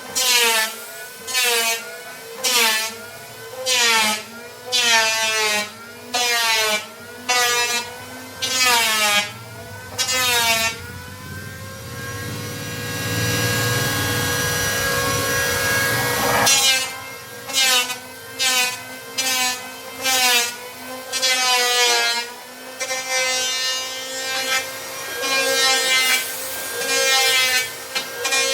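Hand saw cutting plywood in steady back-and-forth strokes, about one a second, each stroke rising and falling in pitch. The strokes stop for about five seconds in the middle, where a steady hum is heard instead, then resume.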